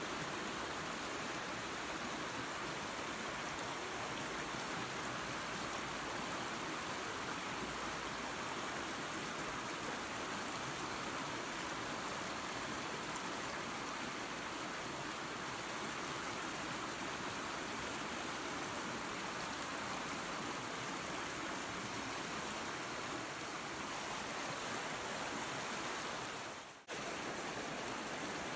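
Small waterfall and creek: water rushing and splashing steadily, with a brief dropout about 27 seconds in.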